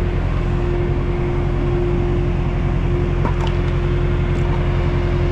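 Semi truck's diesel engine running steadily at a constant speed while grain unloads, a low drone with a steady whine over it.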